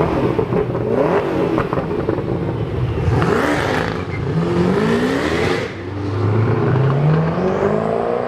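Supercar engine accelerating hard, its pitch climbing again and again as it revs up through gear changes, with a burst of hissing exhaust noise midway.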